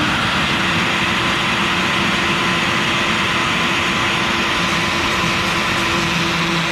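CNC router spindle running at about 18,000 RPM with a 1/4-inch O-flute bit: a steady whine over a constant hiss.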